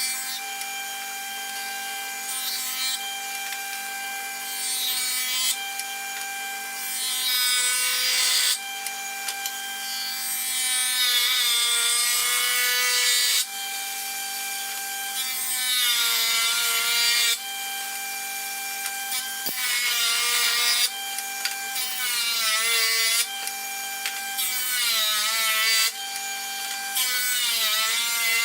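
An electric power tool's motor running with a steady whine while it cuts walnut wood in about nine passes; in each pass the sound grows louder and rougher and the motor's pitch dips under the load, then recovers.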